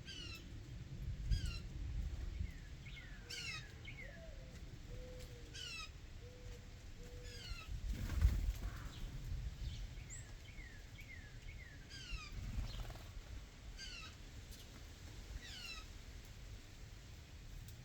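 Wild songbirds singing in short phrases of quick downward-slurred whistled notes, a phrase every couple of seconds. A few low rumbles rise and fall beneath them, the loudest about halfway through.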